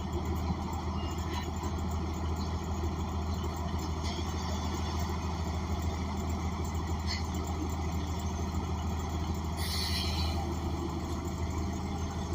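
The natural-gas Cummins Westport ISL G engine of a New Flyer XN40 transit bus idles with a steady low drone, heard from inside the cabin, along with light interior rattles. A short air hiss comes about ten seconds in.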